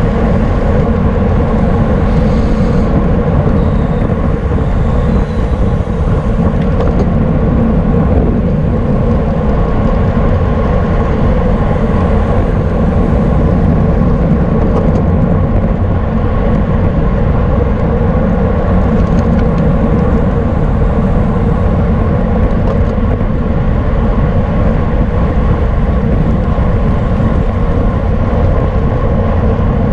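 Steady rush of wind buffeting the microphone and road noise from a bicycle racing at speed, with a steady hum running under it.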